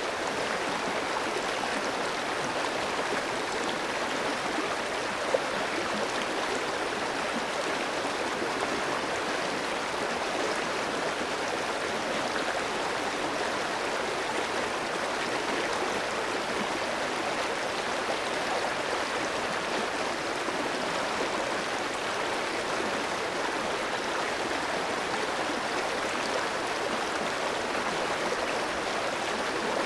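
A clear stream running over rocks: a steady rush of flowing water with a gurgle in it, and one brief splash or drip about five seconds in.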